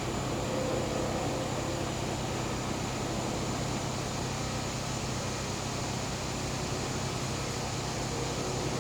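Gas-powered generator running with a steady hum, a thin steady high tone sitting above it.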